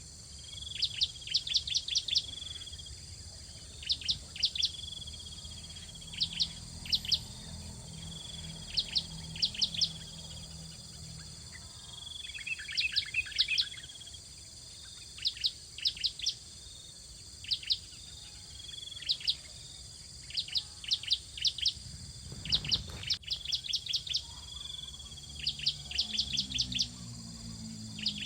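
Bar-winged prinia (ciblek) calling: short, sharp high chirps in quick clusters of three to six, repeating every second or two, with a denser burst of twittering about halfway through. A steady insect drone runs underneath, and there is one low thump near the end.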